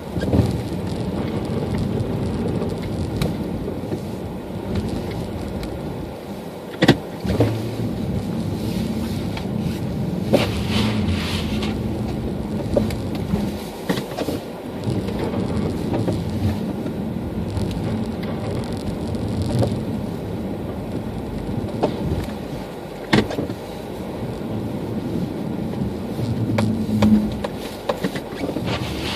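A car driving in a snowstorm: steady engine and road noise, with a few sharp knocks, two of them loudest.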